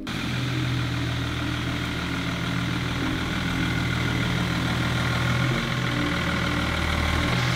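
Land Rover Defender's V8 engine idling steadily.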